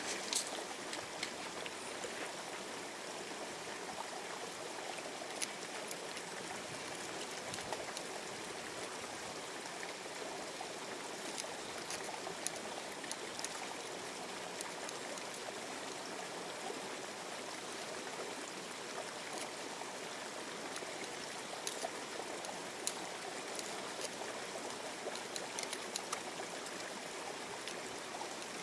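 A river's water running steadily, with scattered faint clicks of small stones during sieving of gravel for gold panning.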